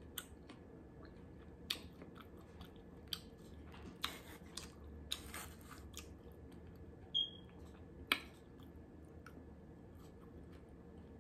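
A person chewing food with wet mouth clicks and smacks every second or so. There is a brief high squeak about seven seconds in.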